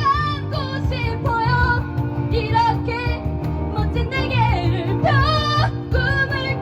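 Live band playing a rock song: a female lead vocal singing held, wavering notes over acoustic and electric guitars, bass guitar and cajon.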